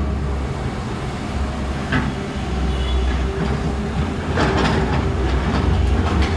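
Heavy excavator's diesel engine running with a steady low rumble and metallic clanks. The clatter grows louder and busier for the last couple of seconds.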